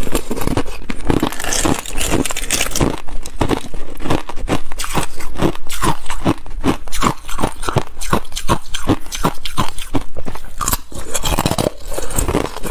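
Ice being crunched between the teeth: a person chewing a mouthful of ice close to the microphone, with rapid, even crunches about three a second.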